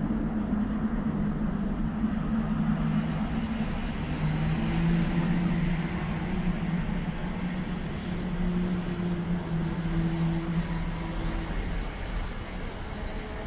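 Low, steady droning hum with a few held, horn-like tones that drop slightly in pitch a few seconds in and fade near the end. It is the unexplained groaning noise heard in the sky, not traced to any source.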